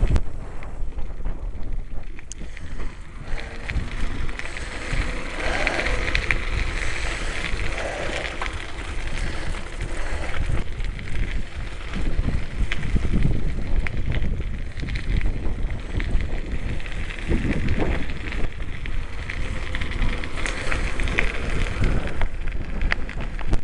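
Riding a bicycle along a country lane: wind buffeting the microphone over a steady rush of tyre noise, with scattered small clicks and rattles from the bike.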